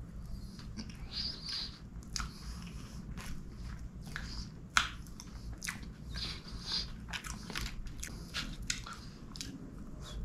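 Close-miked chewing of soft chocolate gateau: wet, sticky mouth sounds and lip smacks in irregular short bursts. There is one sharp click a little under halfway through.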